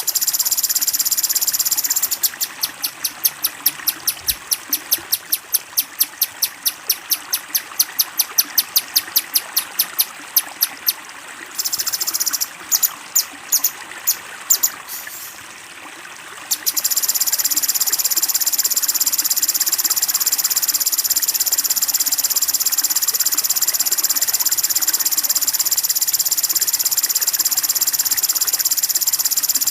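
A high, shrill buzzing trill from a songbird in a bird-training mix. It is steady at first, breaks into rapid pulses of about four a second, stutters for a few seconds, then runs steady again. A constant hiss of flowing water lies underneath.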